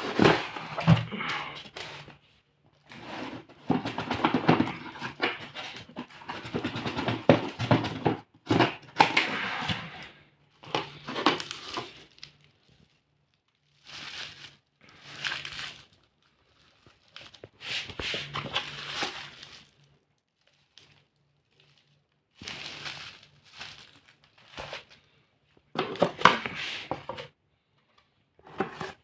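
Rustling and crinkling noises in repeated bursts of one to three seconds with short pauses between them, like something papery or plastic being handled.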